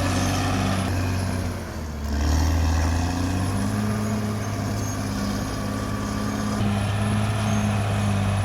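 Caterpillar D6R XL bulldozer's diesel engine running under load, its note dipping briefly about two seconds in and then holding steady, with a thin high whine above it.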